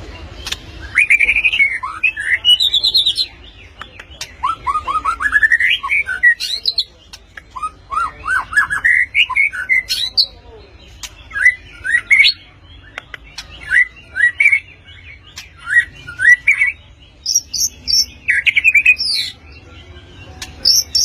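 White-rumped shama (murai batu) singing loud phrases of rapid, sliding whistled notes, one burst after another with short pauses between, a few very high notes among them near the end.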